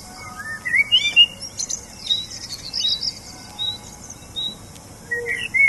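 Small birds chirping: short, high notes and rising whistles, some repeated every half second or so.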